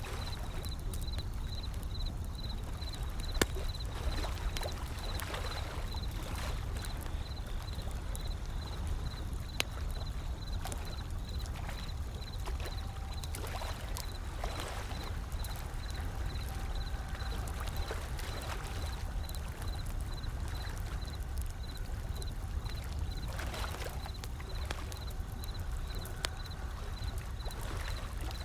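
Wood fire crackling with scattered sharp pops, one louder pop about three seconds in, over a steady low rumble of ocean waves.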